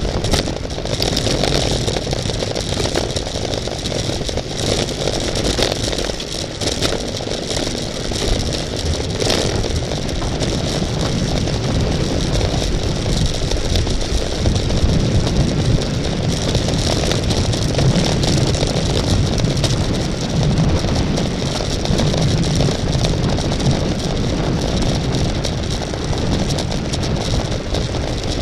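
Wind and road noise on a bicycle-mounted camera in a road race: a steady, loud rush with low rumble and a few sharp rattles.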